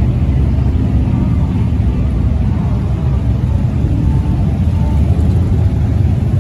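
Steady low rumble of motorcycle engines running in street traffic, with faint crowd voices in the background.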